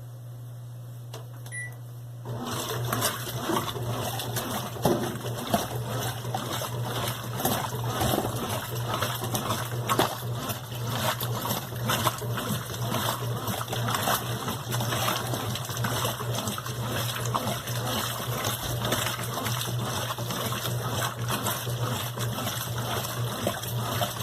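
Brastemp BWQ 24 washing machine: a short beep, then about two seconds in water starts rushing and splashing inside the tub, going on steadily over a low hum.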